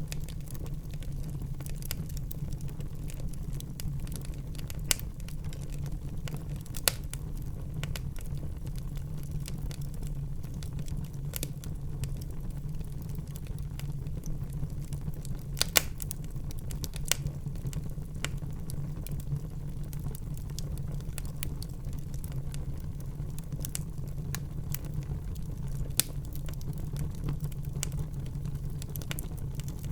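Wood fire burning in a fireplace: a steady low rumble of flame with scattered sharp crackles and pops from the burning wood. A few pops stand out louder, one near the middle.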